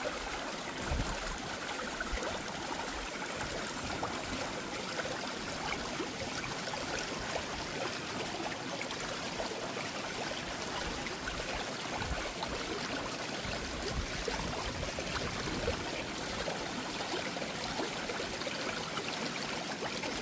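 Stream water running and trickling steadily, with a few brief low gusts of wind on the microphone.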